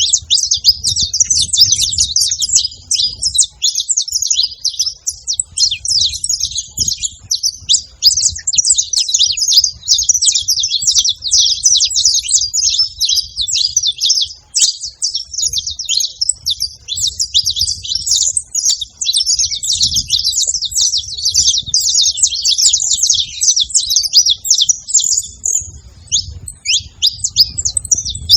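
Saffron finch singing: a rapid, unbroken run of high chirps and trills, with a faint low rumble underneath.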